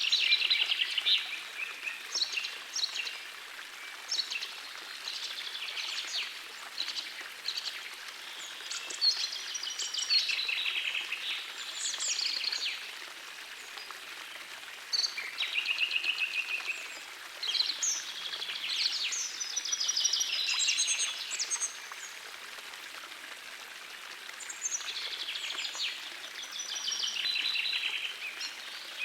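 Songbirds singing in bright, repeated phrases every few seconds over the steady rush of a gentle forest stream.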